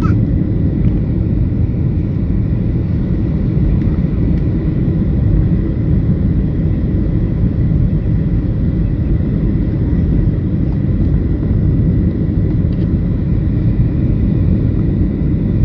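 Steady low cabin rumble inside a Boeing 737-700 in flight, the CFM56 engines and airflow drone together, with a faint steady high tone above it.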